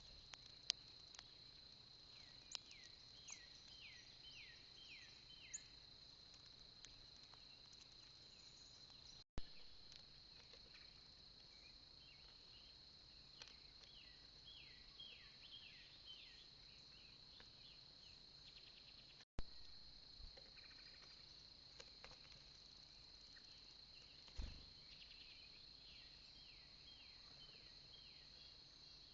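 Faint, steady high insect drone, like crickets or katydids, with a songbird three times singing a quick series of about five down-slurred notes. A few soft clicks and two brief dropouts where recorded clips are joined.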